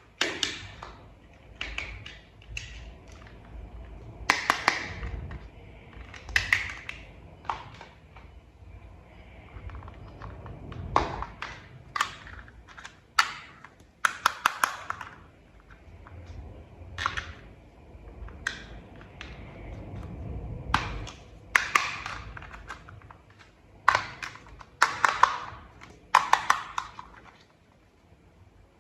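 Hands handling toy parts and clicking them together during assembly of a toy truck: irregular sharp clicks and taps, some loud, with softer rustling between.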